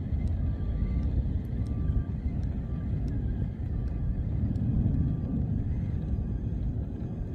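A steady low rumble, with faint light ticks and a few short, faint high tones over it.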